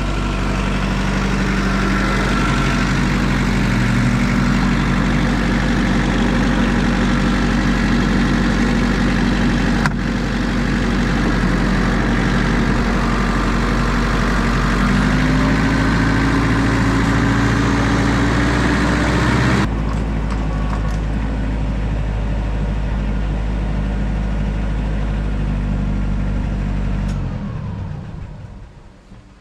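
Tractor engine running steadily, its revs rising briefly about halfway through, then shut off near the end and winding down to a stop.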